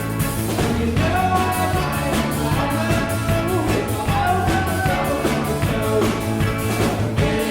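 Rock band playing an instrumental passage on accordion, guitar, bass and drums: a steady drum beat under a bass line, with a melodic lead line on top.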